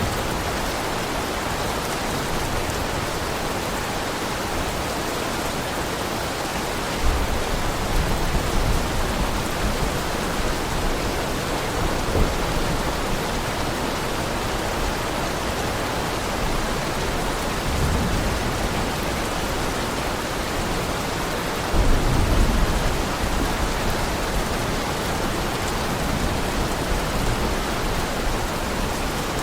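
Heavy rain falling steadily, with a few low rumbles of thunder rolling under it, the loudest about three quarters of the way through.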